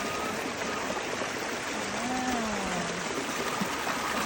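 Steady rushing of rainwater running off after heavy overnight rain, like a swollen stream. About two seconds in, a short low call slides up and then falls.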